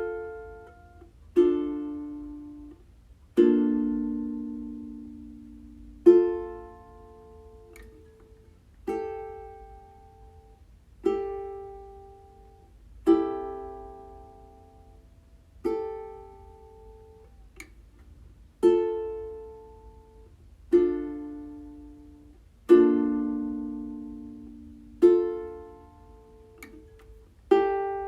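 Slow ukulele music: single strummed chords, one every two to two and a half seconds, each struck and left to ring out and fade before the next.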